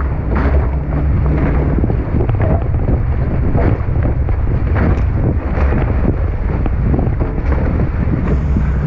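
Strong wind buffeting an action camera's microphone aboard a Tornado catamaran sailing fast, a steady heavy rumble, with water rushing and splashing against the hulls in short repeated dashes.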